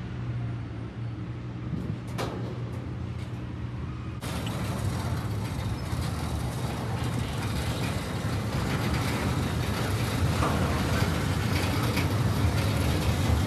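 Freight train flatcars rolling past on the rails with a steady low rumble. About four seconds in the sound changes abruptly, turning louder and rougher.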